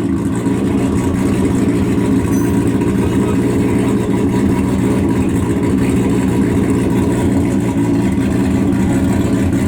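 Drift car engine running loudly at a steady, unchanging pitch, with no revving.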